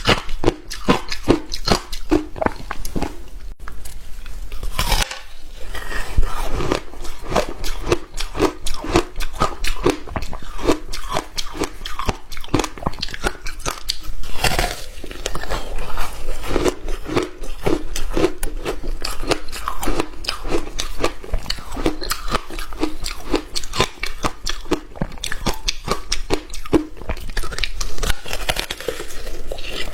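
A person biting and chewing hard frozen ice close to the microphone: sharp crunches in quick succession, about three a second.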